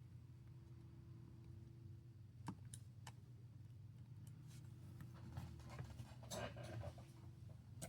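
Faint clicks and light scratching of small parts being handled during a phone repair, a few scattered strokes with a brief cluster about six seconds in, over a steady low hum.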